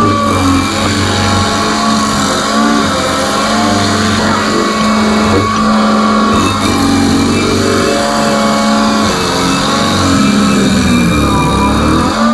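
Stump grinder's engine running hard, its pitch dipping and recovering several times as the cutting wheel bites into the stump.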